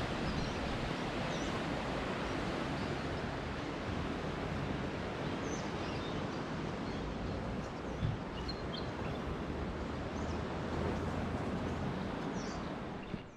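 Steady outdoor wind and distant surf noise, with small birds chirping faintly now and then.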